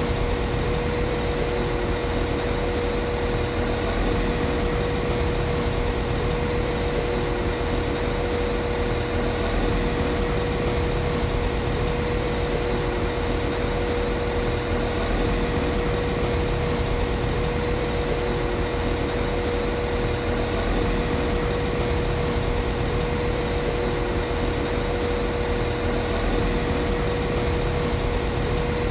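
Class 195 CAF Civity diesel multiple unit's underfloor MTU diesel engine idling steadily: an even low rumble with a steady whine held at one pitch above it.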